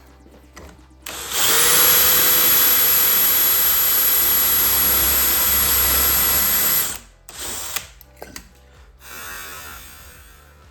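Electric power tool motor spinning up about a second in and running at a steady high speed with a high whine for about six seconds, then switched off; a few light knocks follow.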